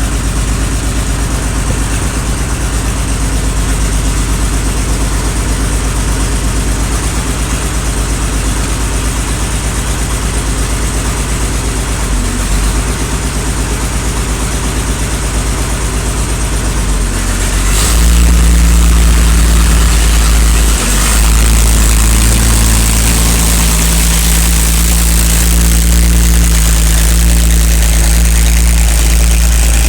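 Ford 6000 Commander tractor's diesel engine running steadily after its rebuild. About eighteen seconds in it steps up in loudness and gets fuller in the low end.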